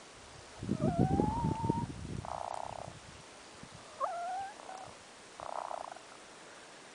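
Domestic hen making odd vocal noises: a rising squeaky call with a low grumble under it about a second in, then a short buzzy trill, another rising squeak about four seconds in, and a second buzzy trill near the end.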